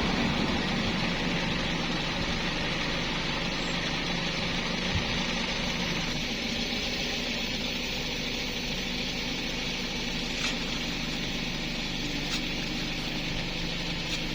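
A small engine idling steadily, with a constant low hum and a few faint clicks.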